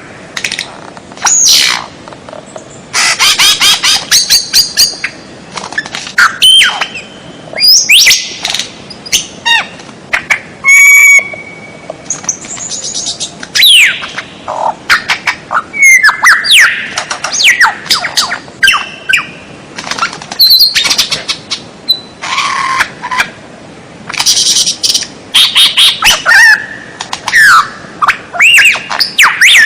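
Songbird song used as a tutor recording for caged birds: a loud, varied run of rapid chirps, sweeping whistles and trills in quick phrases with short pauses between them.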